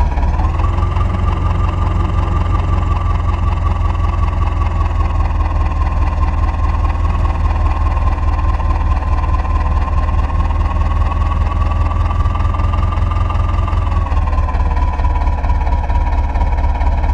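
Heavy diesel engine running steadily, with a deep rumble and a constant high whine above it.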